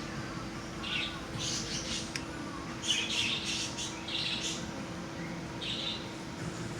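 Small parrots (green cheek conures and an Indian ringneck) giving short high-pitched chirps and squawks in scattered bursts, over a faint steady low hum.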